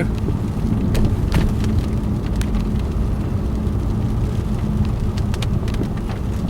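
Car engine running steadily with tyre and road noise on a wet road, heard from inside the car, with scattered sharp ticks.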